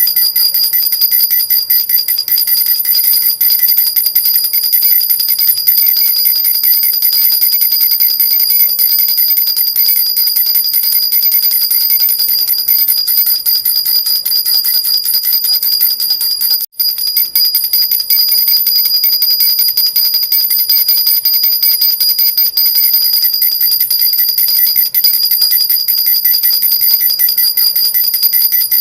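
Jhunjhuna baby rattle shaken continuously, its small bells jingling in a dense, fast, steady shimmer of high ringing. The sound breaks off for an instant about halfway through.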